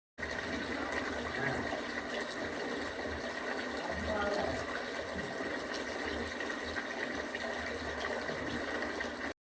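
Steady rushing noise with no clear rhythm or pitch, starting and cutting off abruptly.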